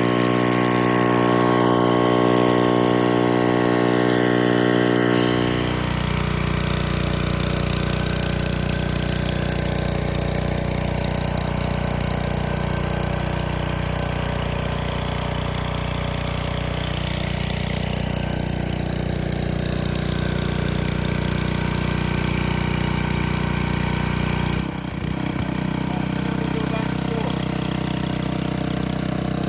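Gas pressure washer engine running steadily under a constant spray hiss while the surface cleaner works the concrete. The engine's sound shifts to a fuller, lower tone about six seconds in, and shifts again briefly near the end.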